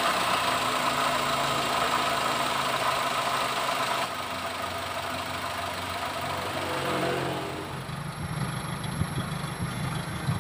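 Freshly rebuilt Daihatsu Gran Max four-cylinder petrol engine idling steadily just after its first start. It gets a little quieter about four seconds in, and near the end its low exhaust pulses come to the fore.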